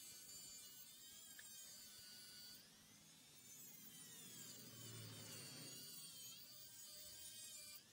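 Faint high whine of a Dremel rotary tool's cutting disc cutting through a cymbal's bronze, its pitch wavering up and down.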